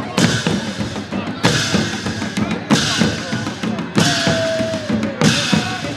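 Festival drumming with a loud beat about every 1.2 seconds, each stroke ringing out with a cymbal-like hiss, over a crowd of voices. A held tone slides slowly down about four seconds in.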